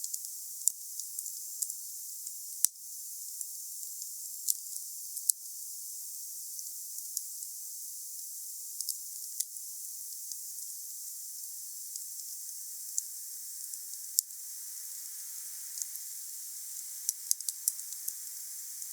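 Wood fire burning: a steady high hiss with sharp crackles and pops scattered through it, a loud pop a few seconds in and a quick cluster of pops near the end.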